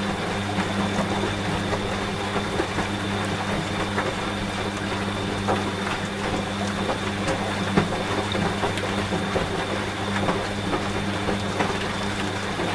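Washing machine running with a steady low hum and a faint high whine, over rain with scattered drops.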